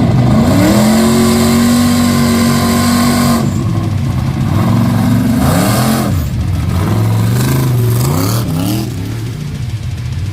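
A mud bog truck's engine revving hard. It climbs and holds high revs for a few seconds, drops, climbs again, then gives several quick blips of the throttle near the end.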